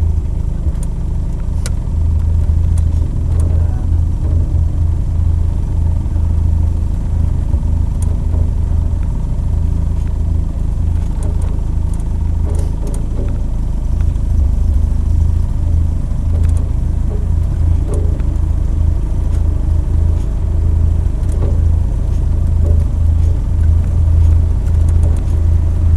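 Engine of an open two-seat sports car running at low speed, heard from on board as a steady low drone.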